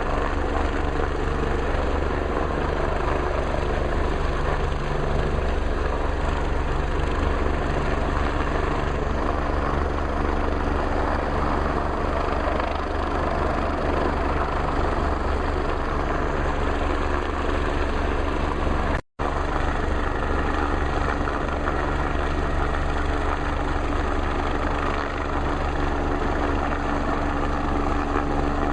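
MBB/Kawasaki BK 117 twin-engine rescue helicopter running steadily in a hover, its turbines and rotor making a constant drone. The sound breaks off for a split second about two-thirds of the way through.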